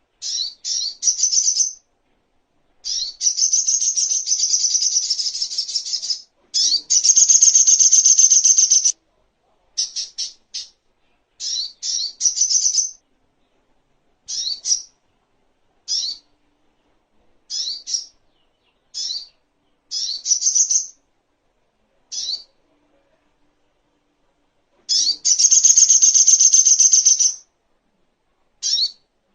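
Spiderhunter (songon, sogok ontong) calling: quick sharp high notes in short groups, broken by long rapid trills of two to three seconds, with clean silent gaps between phrases.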